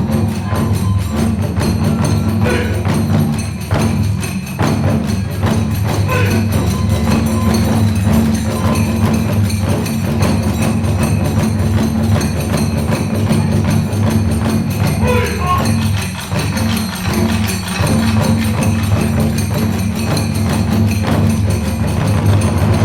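Kagura hayashi: taiko drums and tebyōshi hand cymbals playing a fast, unbroken rhythm of dense strokes.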